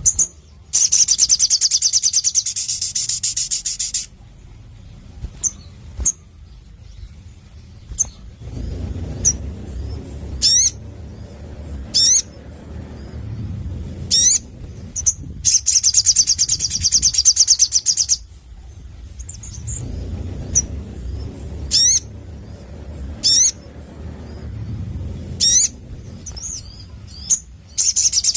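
A sogon (sunbird) singing. A rapid, high trill of about three seconds comes three times, and between the trills are single short rising whistled notes. Low background rumble sits under the quieter stretches.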